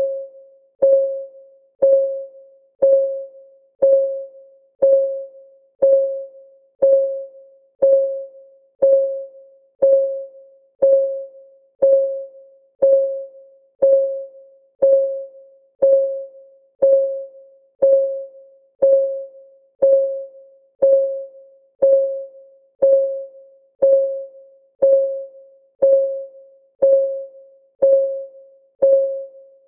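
Clock ticking sound of a countdown timer: a short pitched tick once a second, each one ringing briefly and dying away before the next.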